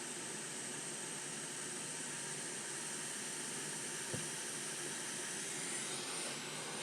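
Steady hiss of air from a small bench blower, with a faint high whine over it and one soft click about four seconds in.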